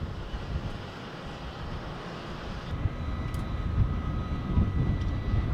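Airplane engines running, with a low rumble throughout and a steady high whine that comes in about three seconds in as the sound grows louder.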